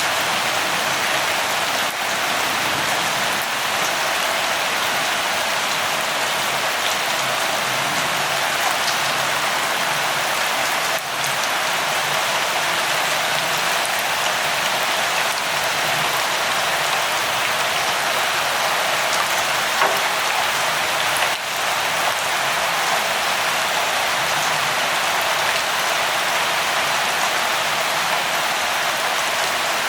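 Light rain falling steadily, an even hiss of many drops, with two brief dips in level about 11 and 21 seconds in.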